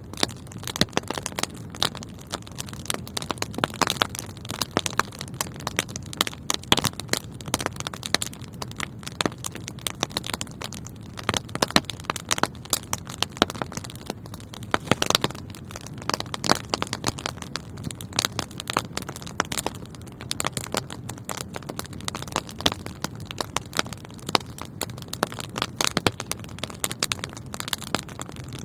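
Wood fire burning in a fireplace: continuous dense, irregular crackling and popping over a low steady rumble of the flames.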